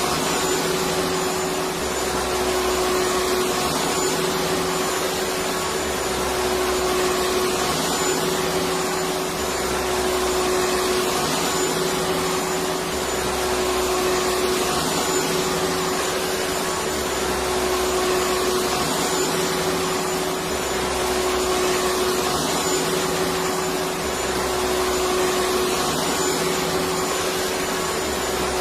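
Electric vacuum cleaner running steadily: a constant rushing noise with an unchanging motor hum.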